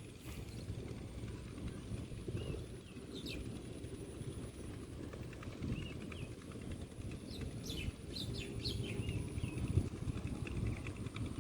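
Birds giving short chirping calls, scattered at first and more frequent in the second half, over a steady low rumble.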